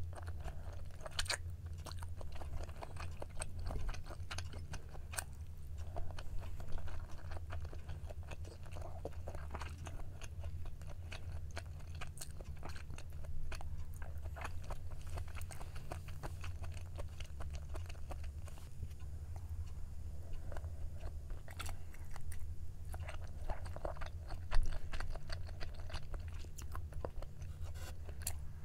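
Close-miked chewing of Korean braised chicken (jjimdak) in sauce: many small wet clicks and smacks of a mouth eating. A steady low hum runs underneath.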